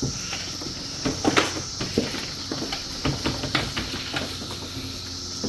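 A push lawn sweeper rolls over grass, its brushes and wheels making irregular clicks and knocks as it picks up dead cicadas. A steady high-pitched cicada chorus drones throughout.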